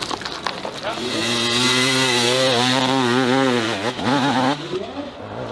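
Dirt bike engine revving high and held there for about three seconds, its pitch wavering, then dropping away about four seconds in.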